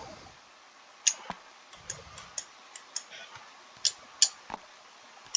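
Computer mouse clicking, about a dozen sharp, irregularly spaced clicks as game units are placed on the map.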